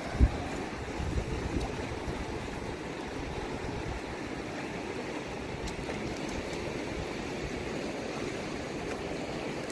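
Fast river water rushing steadily, with a brief low thump just after the start.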